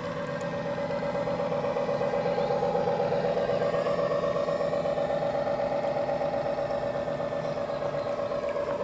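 Radio-controlled model tugboat's motor running: a steady whine with fast, even pulsing that grows a little louder over the first couple of seconds, then holds.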